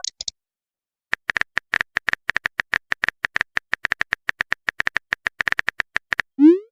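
Phone keyboard tapping sound effect: a rapid, irregular run of short clicks as a message is typed, ending near the end with a short rising sweep like a message-sent sound.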